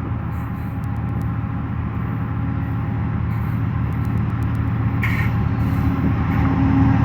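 Diesel locomotive engine running with a steady low hum, growing steadily louder as it approaches.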